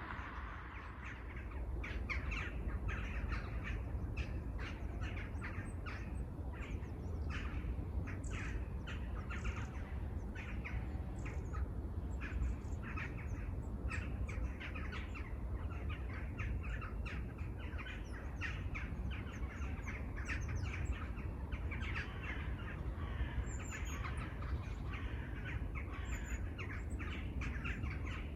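Many birds calling in a forest: a dense run of short, repeated calls, over a steady low rumble.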